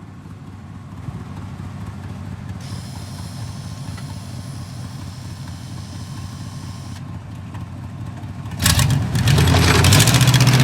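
Vehicle engine running steadily at low revs, then revving hard about eight and a half seconds in, much louder, with a rushing noise over it.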